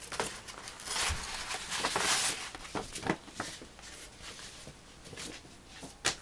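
A book being slid out of a cardboard pull-tab mailer: a couple of seconds of paper-and-cardboard rustling and scraping, then a few light taps and knocks from handling.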